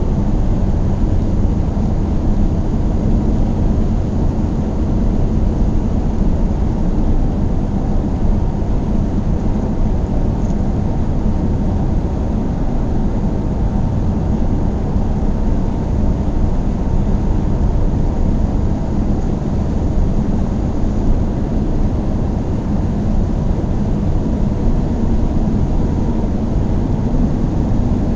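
Car driving at a steady speed: an even, unchanging low rumble of road and engine noise.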